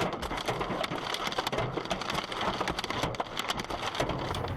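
Hailstones pelting down: a dense, irregular patter of sharp hits over a steady hiss.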